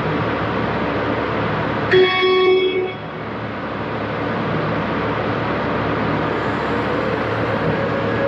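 Hyster V30ZMU electric turret truck running with a steady hum, its horn sounding one short beep, under a second long, about two seconds in.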